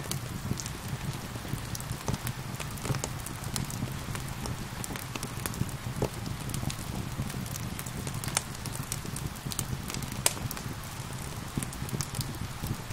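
Wood fire crackling with frequent sharp pops, the loudest about ten seconds in, over a steady hiss of gentle rain.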